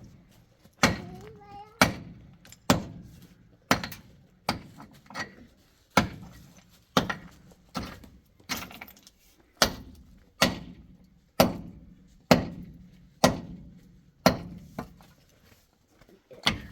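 A series of heavy blows, about one a second, each a sharp thunk with a short ringing tail, like a tool striking something hard over and over.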